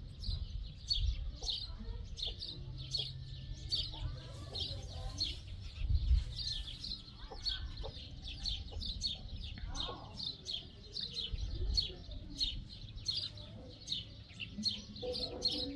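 Birds chirping in a steady run of short high chirps, about three a second, over low rumbling and a few thumps.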